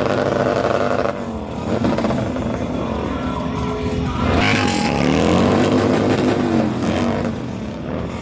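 Motorcycle engines running and revving, the pitch climbing and falling back several times, with one long rev rising and easing off about five to seven seconds in.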